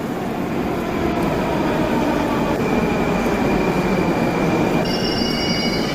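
Metro train running, a steady loud rumble with a faint high whine; about five seconds in, several high squealing tones come in together.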